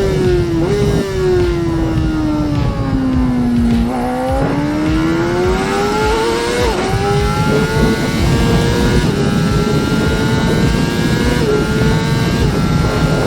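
Honda CBR600RR's 599 cc in-line four-cylinder engine on the move. Over the first four seconds the revs fall, with two short blips on the way down. They then climb, drop back at an upshift about seven seconds in, and climb again with a smaller shift near the end, over a steady rush of wind and road noise.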